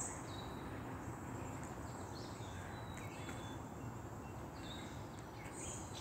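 Faint birds chirping: scattered short, high calls a second or so apart over a steady low background noise.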